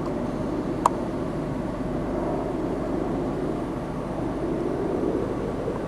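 Steady low rumble of a car being driven along a street, with one sharp click about a second in.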